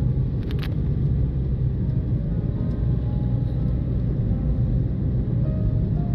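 A car in motion, with a steady low rumble of engine and road noise and a short sharp click about half a second in.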